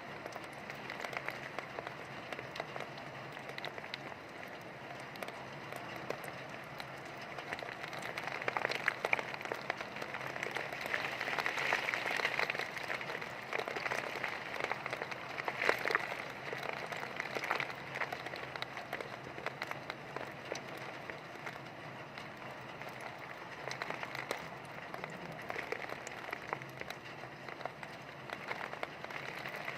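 Heavy rain pattering, a dense hiss of drops with scattered sharper taps, growing heavier for a stretch in the middle.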